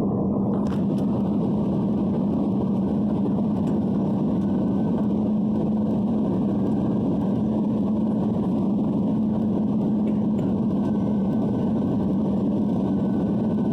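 Steady rush of engine and airflow noise inside the cabin of an Airbus A320 in flight, with a constant low hum.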